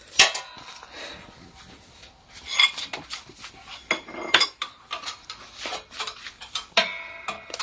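Steel tools and parts knocking and clinking against each other in irregular sharp strikes, some leaving a brief metallic ring, as an Enduro joint ball is forced into its poly bushing cup on a track bar.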